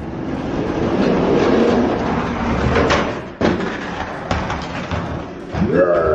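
Die-cast toy monster trucks rolling fast down a plastic track with a steady rumble. Several sharp clacks come about three to five seconds in as the trucks bounce on the jump and crash.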